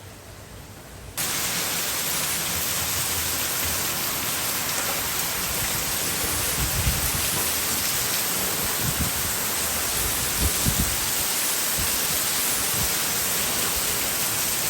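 Heavy rain falling, a dense steady hiss that cuts in suddenly about a second in, with a few brief low thuds later on.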